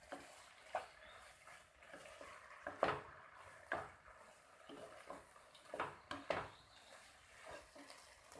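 Spatula knocking and scraping against a pan as chowmein noodles are stir-fried and mixed with their sauces, in irregular clanks, the loudest about three seconds in.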